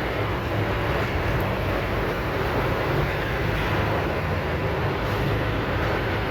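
A steady mechanical running noise with a low hum underneath, even throughout.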